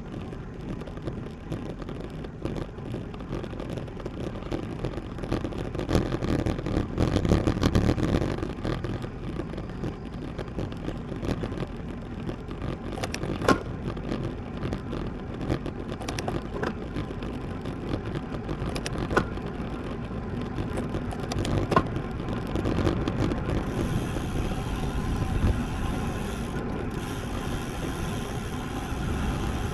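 Wind and road noise from a road bike riding on pavement: a steady low rushing that swells for a couple of seconds, with a few sharp clicks scattered through it.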